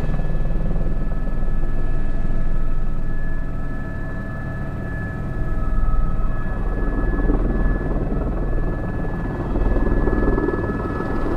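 Airbus H125 (AS350 B3) single-turboshaft helicopter in flight, heard from inside the cockpit: a steady low rotor drone under a constant high turbine whine. It swells a little louder about halfway through and again near the end.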